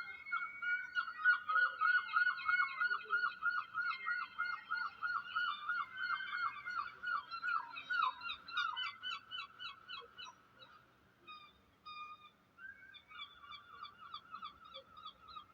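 Birds calling in a fast train of repeated harsh notes, about five a second, with several birds overlapping; the calling thins out after about ten seconds, then picks up briefly again.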